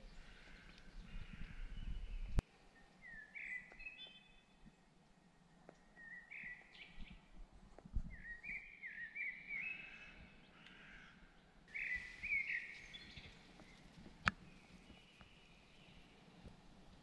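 Faint wild birdsong: short phrases of clear, gliding calls repeated with pauses in between. A low rumble at the start stops abruptly with a click about two seconds in, and a second sharp click comes near the end.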